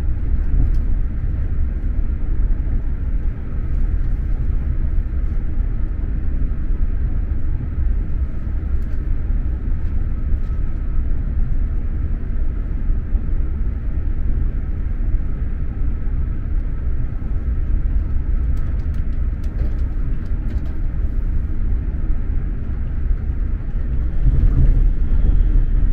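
SJ X2000 high-speed train running at speed, heard from inside the passenger car: a steady low rumble, with a few faint clicks about three-quarters of the way through and a slight swell in loudness near the end.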